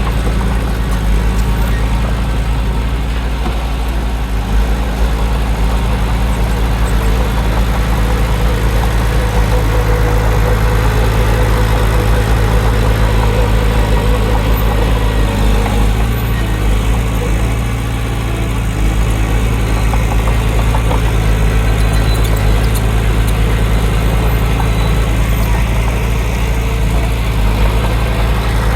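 Diesel engine of heavy earthmoving machinery running steadily, with a deep, even engine note that hardly changes in pitch.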